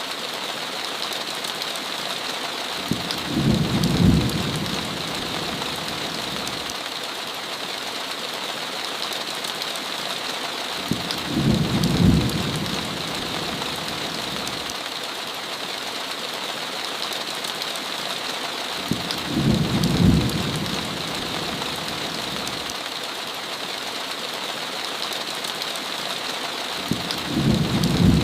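Steady heavy rain on a window, with a low rumble of thunder about every eight seconds, four times; each rumble swells for a second or so before it peaks.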